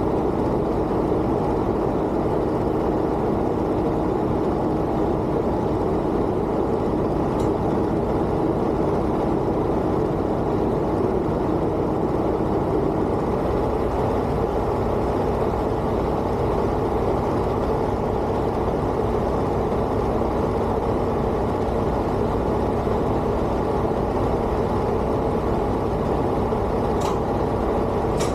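Heavy truck's engine running with a steady drone; a faint steady hum within it fades out about halfway through.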